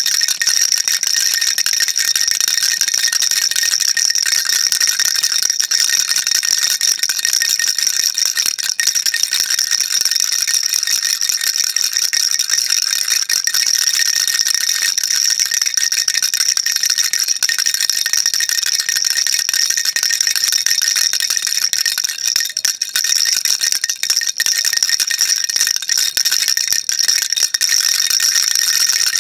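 Baby rattle shaken continuously: a dense, unbroken, high rattling with no pauses.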